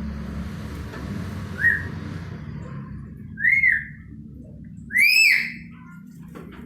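Black-capped lory giving three whistled calls: a short faint rising note, then two rise-and-fall whistles, the last the loudest.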